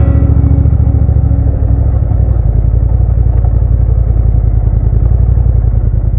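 Motorcycle engine running steadily with a low, even pulse.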